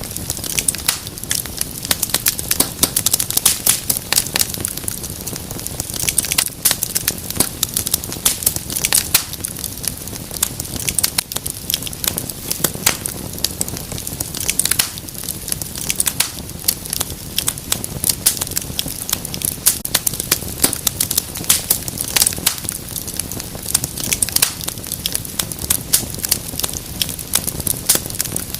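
Wood fire crackling in a fireplace: a dense, irregular run of sharp pops and snaps over a low steady rumble of the flames.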